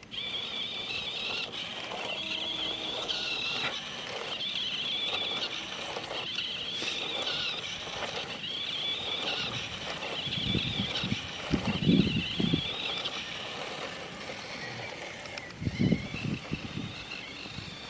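Small electric motors and gearboxes of a toy RC tractor and RC car whining at a high, wavering pitch as they strain against each other in a tug-of-war. A few low rumbling knocks come in around ten to twelve seconds in and again near the end.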